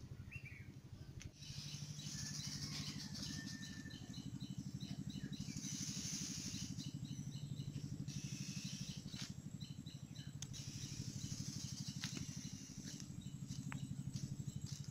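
Small birds chirping in quick, repeated short notes over a steady low background hum.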